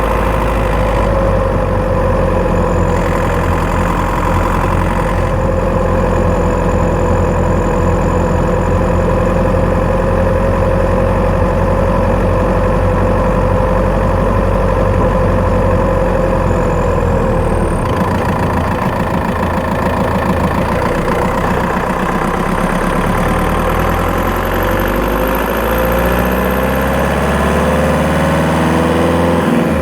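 Skoda Octavia 1.9 TDI PD diesel engine running, heard from the engine bay. The tone holds steady for the first half, then shifts and climbs in pitch over the last several seconds as the engine picks up revs. The owner hears a ticking, chirping noise from this engine mainly when accelerating and does not know its cause.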